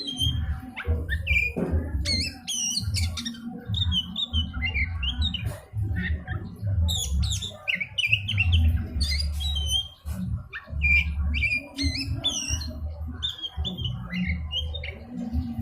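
Oriental magpie-robin (kacer) singing: a fast, varied run of whistles and sweeping chirps, over a low, uneven rumble.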